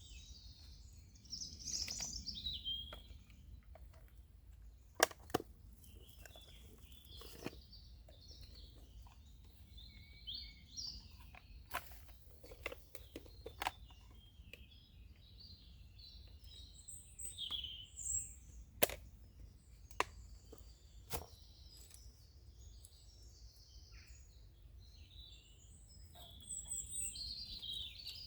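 Woodland birds chirping and calling on and off, with a dozen or so sharp clicks and snaps at irregular moments over a faint low rumble.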